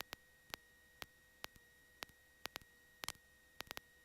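Near silence on the intercom and radio audio line: no engine is heard, only faint, sharp clicks at an uneven pace of about two or three a second over a faint steady electrical tone.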